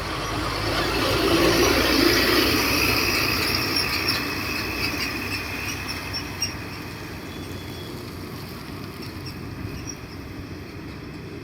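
Heavy construction machinery working: a machine's engine rumbling under high-pitched metallic squealing, loudest about two seconds in and easing off gradually.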